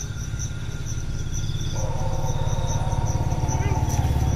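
A motorcycle engine running and growing steadily louder. High insect chirps, like crickets, repeat a few times a second throughout.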